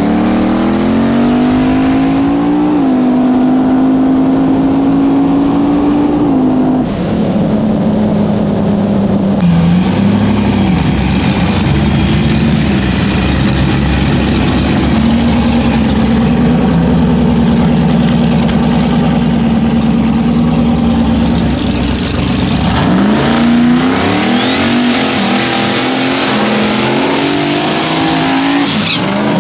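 Drag-racing engine running loud: it revs up at the start, holds a steady note, and near the end climbs again under a rising high whine before cutting off abruptly.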